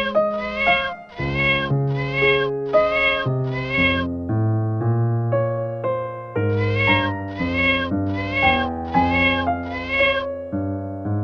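A domestic cat meowing in short, evenly spaced calls: about six in quick succession, then a pause of about two seconds and five more, over background piano music.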